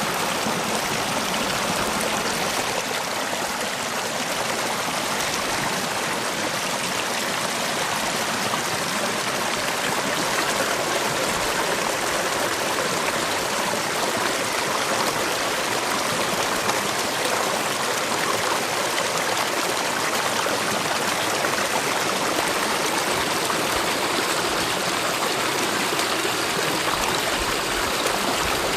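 Mountain valley stream flowing steadily, a continuous rush of running water.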